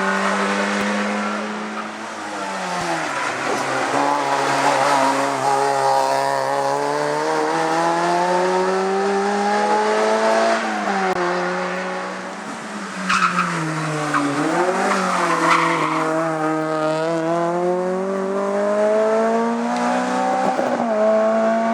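Hillclimb race car engine revving hard, its pitch rising and falling repeatedly as it works through the gears, with a dip and quick blips partway through, as on a downshift into a corner. A few sharp cracks come in the middle.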